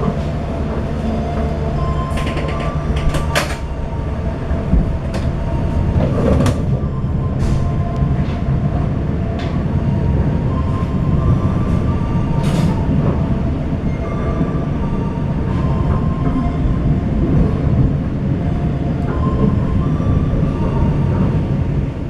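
Passenger train running along the track, heard from aboard a coach: a steady rumble of wheels on rail with scattered sharp clacks. A low steady hum fades out about three and a half seconds in.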